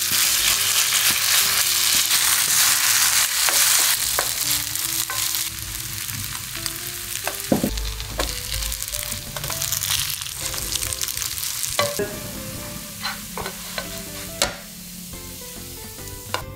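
Grated potato and egg patties frying in butter in a nonstick pan: a steady sizzle, loudest in the first few seconds and slowly fading, with a few sharp taps of a utensil against the pan from about halfway through.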